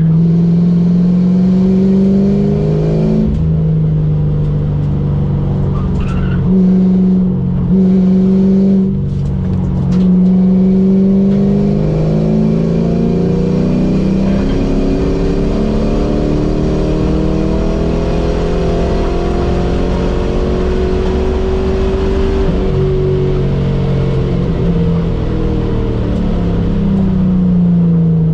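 The car's own engine heard from inside the cabin while lapping a racetrack: its pitch climbs and drops sharply several times in the first ten seconds or so, then holds a long, gently varying pull before rising again near the end.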